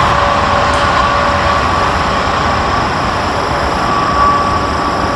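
Passenger coaches of an express train rolling away on the track: a steady rumble of wheels on rail with faint, thin, steady squealing tones.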